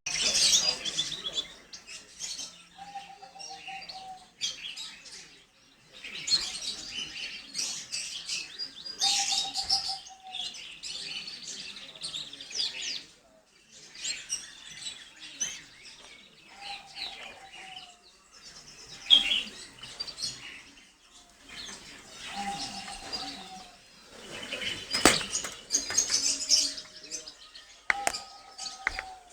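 Gloster canary singing: bursts of rapid high chirps and trills every few seconds, with a shorter wavering lower note repeating between them. A sharp click sounds once, about three quarters of the way through.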